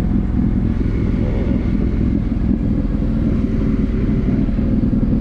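2019 Yamaha Ténéré 700's parallel-twin engine running at a steady pitch.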